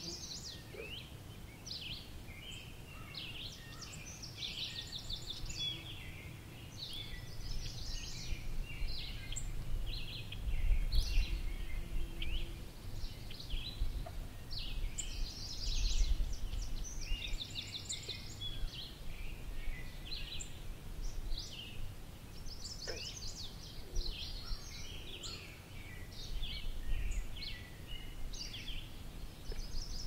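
Songbirds chirping and singing in the background, many short overlapping calls and trills, over a low rumble that swells a few times, loudest about a third of the way in and about halfway.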